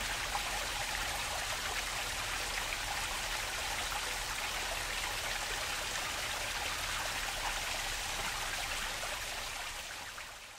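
Water flowing in a stream, a steady rushing and splashing that fades out near the end.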